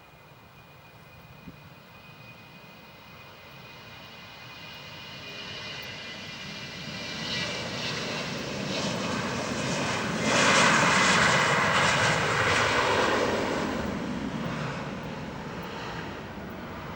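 Airbus A318's CFM56 jet engines passing: a high steady whine grows into a loud roar that peaks about ten seconds in, then fades.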